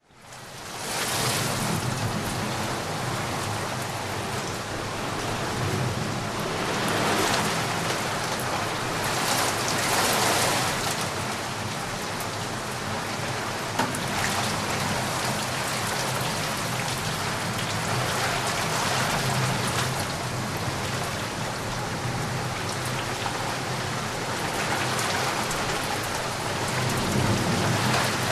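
Steady heavy rain, fading in over the first second and swelling louder a few times.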